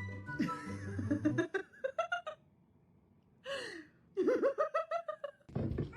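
A person laughing, in two spells with a short quiet pause between them.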